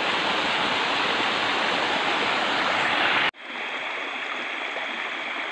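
Small stream's water rushing steadily over rocks. About three seconds in it cuts off suddenly to a quieter, steady hiss.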